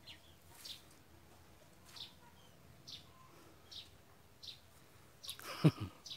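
A bird singing, repeating a short high chirp about once a second over faint background. Near the end comes a brief, louder, lower sound.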